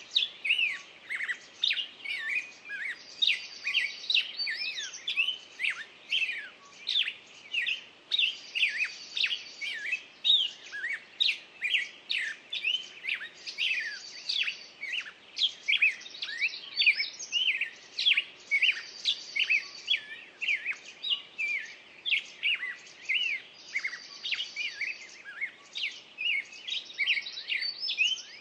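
Birdsong: many birds chirping and whistling in quick short notes, with a high buzzy trill recurring about every five and a half seconds.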